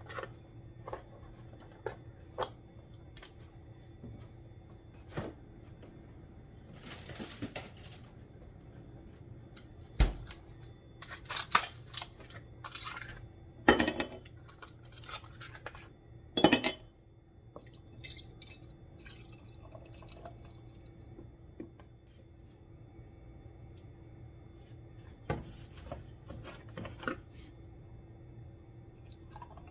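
Scattered clicks, knocks and short rustles of objects being handled, over a faint steady hum; the loudest knocks come about ten, fourteen and sixteen seconds in.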